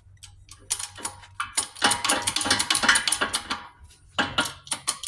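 Rapid metallic clicking and rattling from metal tools and parts being handled at a shop press, in two long runs with a short pause about four seconds in.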